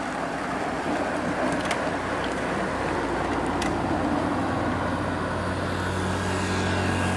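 A motor vehicle's engine running steadily along with road and wind noise, its low hum getting stronger near the end before cutting off suddenly.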